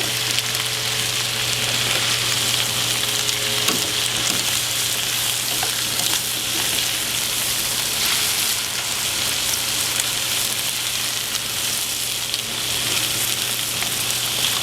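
Seafood frying in a pan of garlic, butter and oil: a steady sizzle with small scattered crackles, over a low steady hum.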